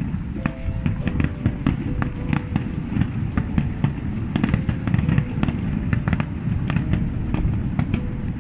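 Fireworks display: a rapid string of crackles and bangs, several a second, over a continuous low rumble of shell bursts, with music playing underneath.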